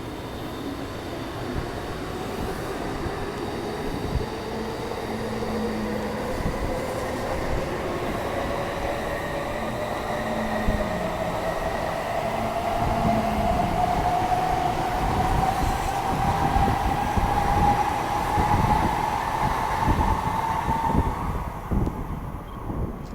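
Shinkansen bullet train accelerating, the whine of its electric traction motors rising slowly and steadily in pitch over rumbling running noise, then fading out near the end.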